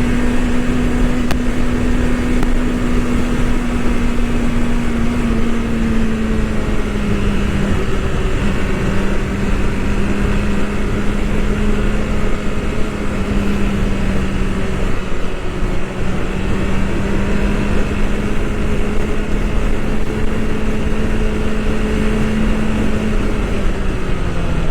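BMW S1000RR inline-four engine running at a steady cruise, with a dense rush of wind and road noise around it. Its pitch eases down a little about six seconds in and holds there, then rises slightly and drops again near the end.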